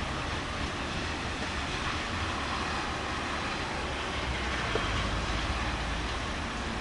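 Thunderstorm: steady rain hiss with a low rolling rumble of thunder that swells in the second half.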